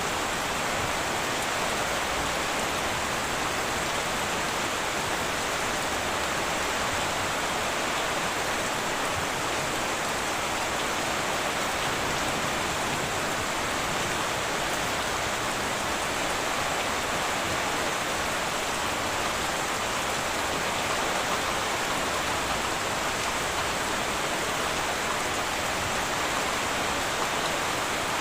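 Heavy rain falling steadily on a tin roof, a dense even hiss with no thunder.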